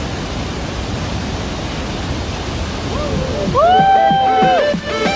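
Steady rushing roar of a large waterfall, the falling water of Tegenungan waterfall. About three and a half seconds in, music with pitched, gliding notes comes in over it.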